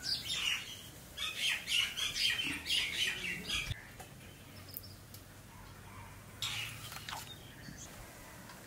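Birds chirping and squawking in quick chattering bursts: a short burst right at the start, a longer run from about one second to nearly four seconds in, and another burst about six and a half seconds in.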